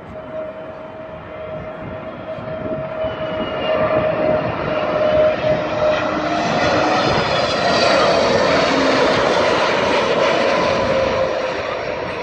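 Airliner coming in low to land, its engine whine and rushing noise building over a few seconds, staying loud for several seconds, then easing off.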